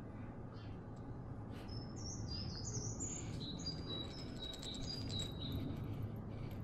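Wild songbird singing a quick series of high, clear chirps and short falling notes, from about two seconds in until past the five-second mark, over a steady low background rumble.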